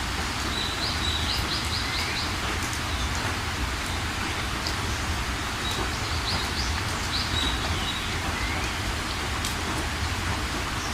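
Steady rain with a low rumble underneath, scattered drips, and a bird singing a short, quick phrase twice, about a second in and again about six seconds later.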